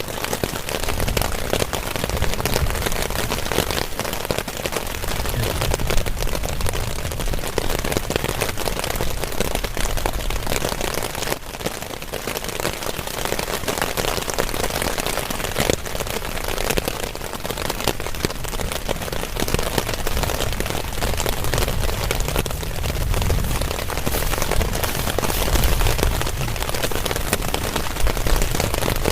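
Heavy rain falling without a break, a dense, even patter of drops.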